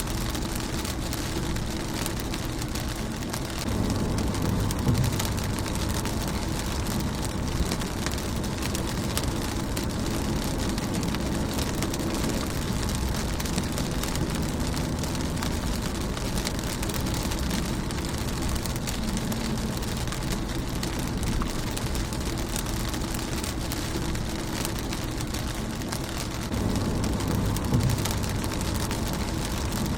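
Steady rain falling on a car windshield, a dense patter of drops ticking on the glass. A low rumble swells up about four seconds in and again near the end.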